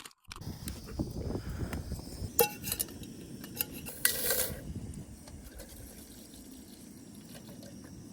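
Water being poured or sloshing in camping cookware for a hot drink, with sharp metal-and-glass clinks about two and a half and four seconds in. The liquid sound eases off after about five seconds.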